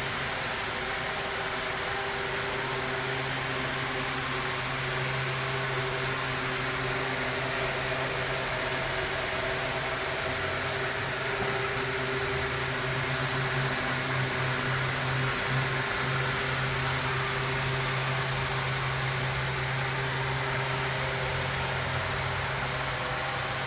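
A steady mechanical whir with a low hum, unchanging throughout.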